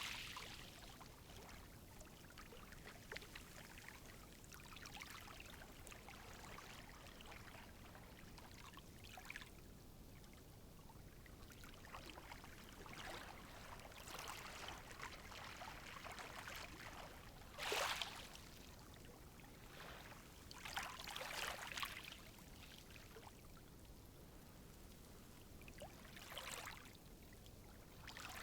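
Gentle sea waves lapping at the shore, a faint steady wash broken now and then by small splashes, the biggest a little past halfway.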